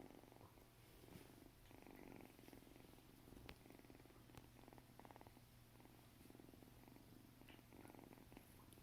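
Kitten purring faintly, in even swells about once a second as it breathes in and out, with a couple of faint clicks.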